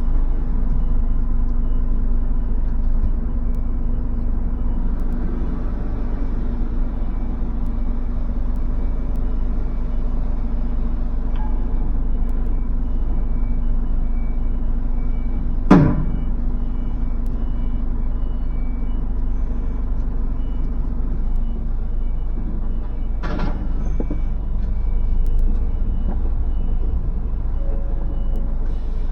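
A lorry's diesel engine running steadily at idle, with a repeating electronic beep like a reversing alarm going on throughout. A sharp hiss of released air, like an air brake, comes about 16 seconds in, and a softer one about 23 seconds in.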